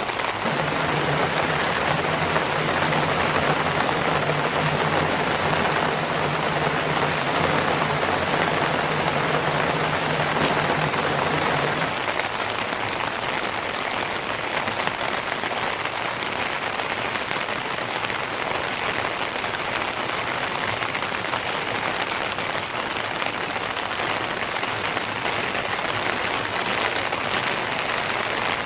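Steady rain falling, a dense even hiss. A low steady hum sits under it for the first twelve seconds or so, then stops.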